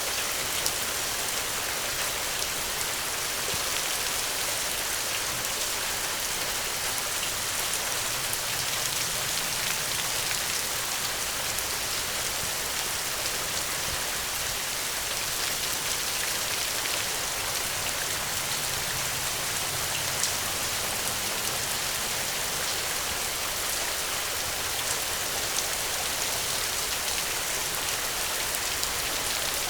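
Steady rainfall, a continuous hiss of rain with many small drops ticking on surfaces.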